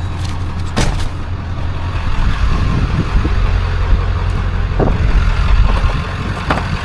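Steady low rumble of a running motor vehicle, with a few sharp knocks about a second in, near the middle and near the end.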